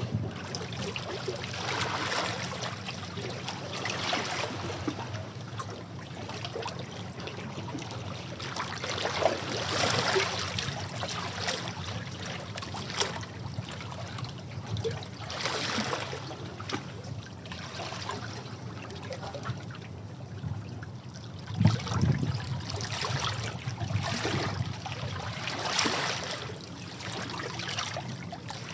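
Sea waves breaking on rocks, a rush of water that swells and fades every few seconds. One wave hits harder about three quarters of the way through.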